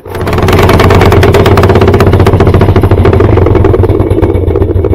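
Older Whirlpool top-loading washer in its spin cycle, making a loud, rapid, even clattering knock over a low hum. This is the dreadful spin noise the repair goes after: damaged ears on the spin tube have stripped the drive block.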